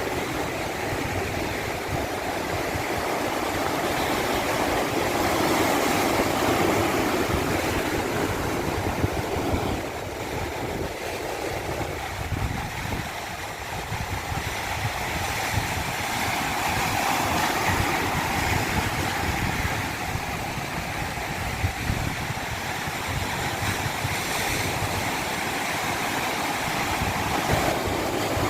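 Steady rush of running water, a continuous even wash with no breaks.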